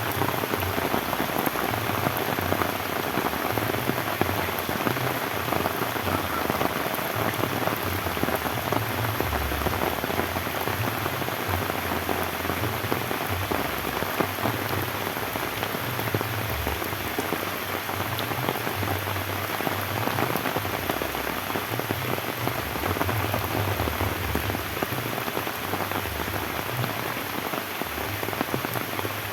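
Steady heavy rain falling on bamboo and surrounding surfaces, a dense even patter throughout.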